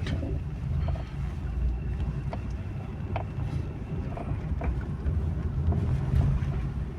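A vehicle moving along a road: a low, uneven rumble, with wind on the microphone and a few faint clicks.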